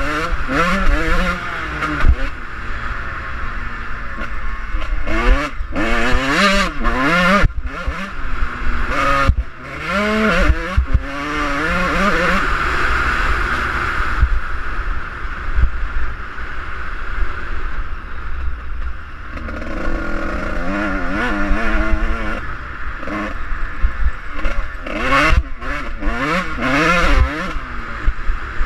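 Suzuki RM125 two-stroke dirt bike engine being ridden hard, its pitch sweeping up and dropping back again and again as the throttle opens and shuts through the gears, with a steadier stretch partway through.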